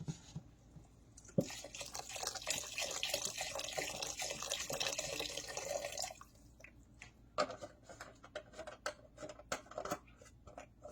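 Chicken broth poured into a pot of noodles: a sharp knock, then a steady pouring stream for about four seconds, followed by a run of drips and light taps.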